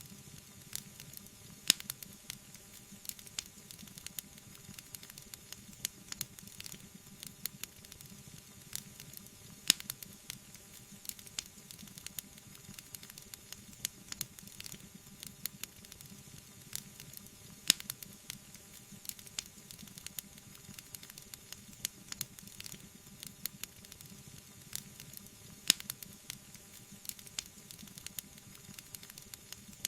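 Wood fire burning in a fireplace: a steady soft hiss with frequent small crackles and a louder sharp pop about every eight seconds.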